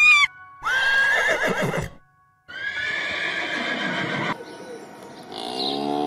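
Two long, high-pitched animal calls with a wavering pitch, one after the other, then a cow mooing from about five seconds in.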